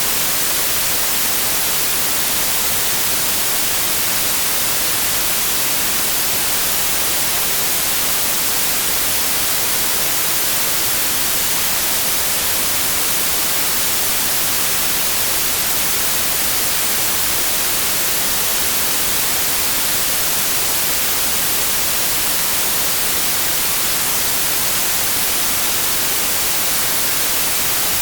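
Digitally generated white noise: a steady, unchanging hiss with no pauses or events, strongest in the highest frequencies.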